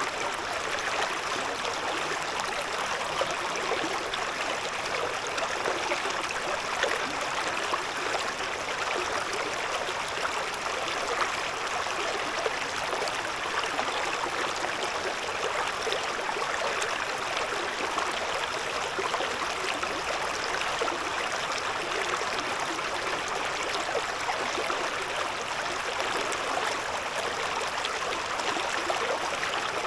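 Shallow river babbling and gurgling over stones, a steady even rush of water.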